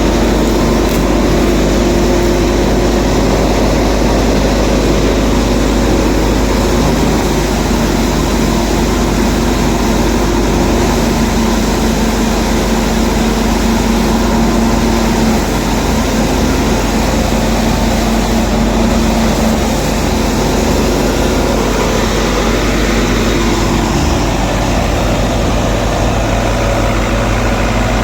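Fiat 640 tractor's four-cylinder diesel engine running steadily under load, driving a wheat thresher whose drum and fans churn along with it. The engine note shifts slightly near the end.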